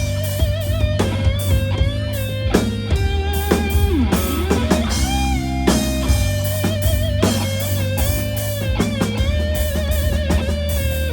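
Live rock band playing an instrumental break: an electric guitar lead line, held and bent with vibrato, over bass and drum kit.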